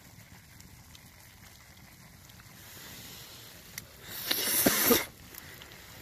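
A person slurping ramen noodles: one loud, hissing slurp about four seconds in, lasting about a second.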